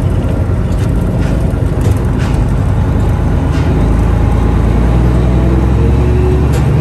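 Low, steady engine rumble aboard a car ferry, growing heavier about four seconds in.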